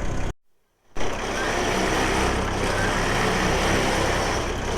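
A truck engine idling steadily. The sound drops out completely for about half a second near the start, then resumes.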